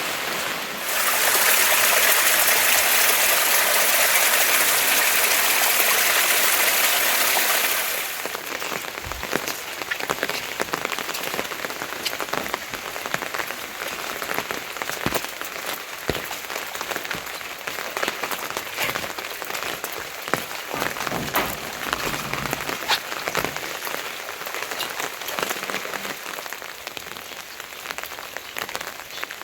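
Rain falling: a dense, louder rush of heavy rain for the first several seconds, which drops off suddenly to lighter rain with many separate drops ticking.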